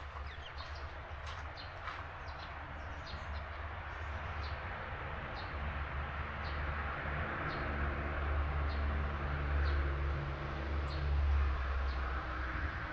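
Small garden birds at a feeder chirping: a quick cluster of short high chirps, then single chirps at a fairly even pace, roughly every half to one second. Beneath them a low rumble swells to a peak near the end and then eases.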